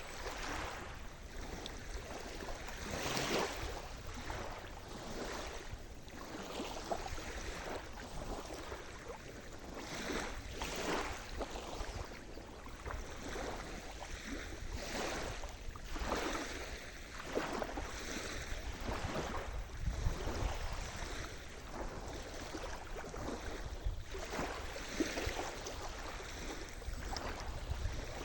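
Sea surf: waves breaking and washing on the shore, with a splash or swell every few seconds at irregular intervals over a continuous wash, and a steady low rumble underneath.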